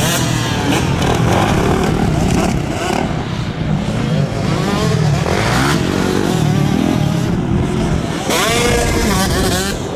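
Motocross bike engines racing, revving up and down, with a strong rising and falling rev sweep near the end.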